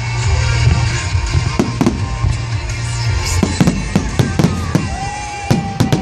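Aerial fireworks going off in quick succession: a run of sharp bangs and crackles, several close together in the second half, with music playing underneath.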